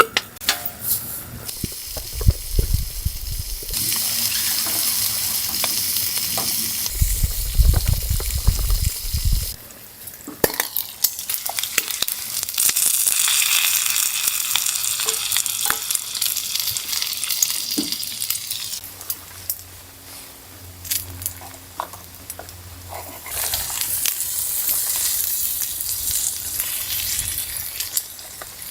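A hissing, sizzling noise that swells and fades in long stretches, with scattered clicks and clatter, and brief low rumbles early on.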